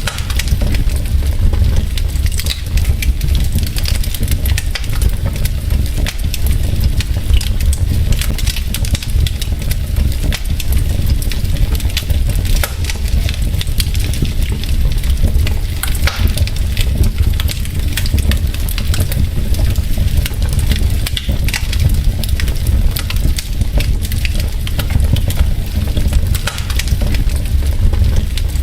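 Wood fire burning in a fireplace: logs crackling with dense, irregular pops and snaps over a steady low rumble of the flames.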